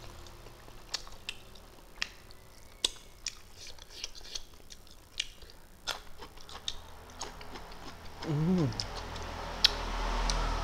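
Wet chewing and lip-smacking of a person eating fish and rice by hand, heard as irregular sharp clicks. About eight seconds in, a short wavering hum comes from the eater.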